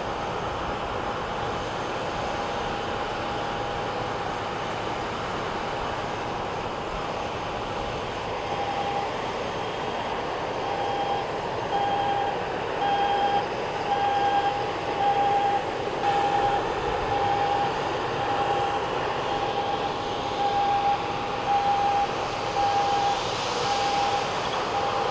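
Steady mechanical running noise with a constant tone. About a third of the way in, the tone turns into a repeating electronic beep, about one beep a second, continuing to the end.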